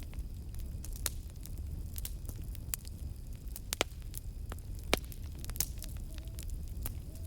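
Campfire burning: wood crackling and popping in sharp irregular snaps over a low steady rumble, the loudest pop about five seconds in. A few faint owl hoots come in near the end.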